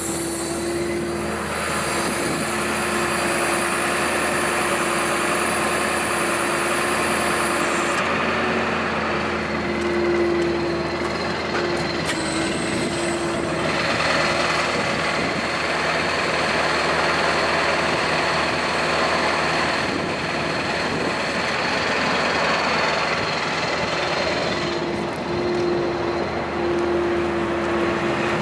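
Ford F550 truck engine running with the PTO engaged, driving the Elliott boom's hydraulic pump while the outriggers are raised: a steady hum with hydraulic hiss that shifts in strength several times as the hydraulics work.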